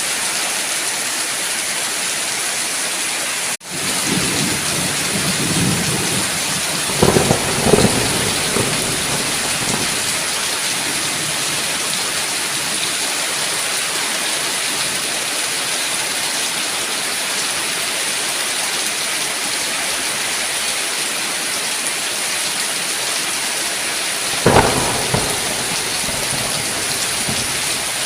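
Steady heavy rain hissing, with thunder rumbling a few seconds in and a sharper thunderclap with rumble about three-quarters of the way through. The sound cuts out for an instant just before the first thunder.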